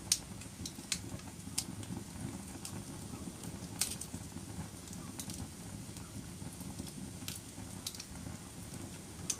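Fireplace fire burning with a steady low rumble of flame, and scattered sharp pops and crackles from the burning wood, about nine in all.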